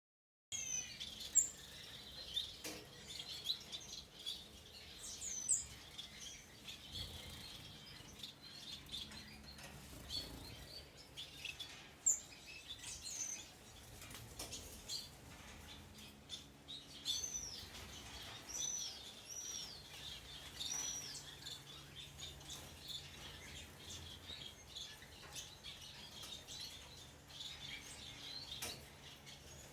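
Many small cage birds chirping and twittering together in an aviary, with a steady stream of short high calls and occasional curved, swooping whistles.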